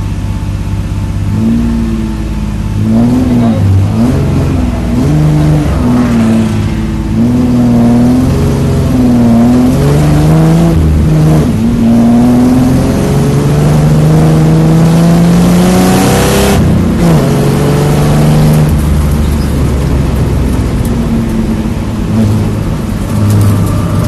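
2003 Infiniti G35's V6 engine pulling hard under acceleration, its pitch climbing and then dropping at each gear change, several times over.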